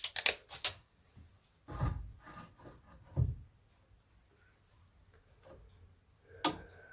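A wooden board being handled and set up for a cut: a few quick clicks, rubbing and scraping of wood, two dull thumps about two and three seconds in, and a sharp knock near the end.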